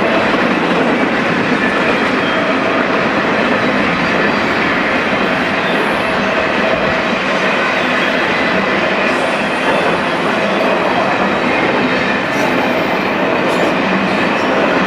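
BNSF intermodal freight train rolling steadily past, its wheels running on the rails in a continuous loud rush with a faint ringing tone.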